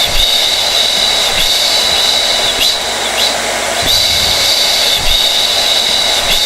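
Hair dryer running steadily: a constant rush of blown air with a high whine over it.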